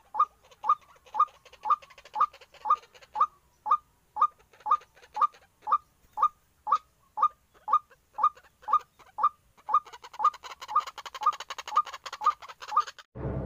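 White-breasted waterhen (ruak-ruak) calling, a short note repeated steadily about twice a second. A crackly hiss joins under the calls for the last few seconds, and music cuts in at the very end.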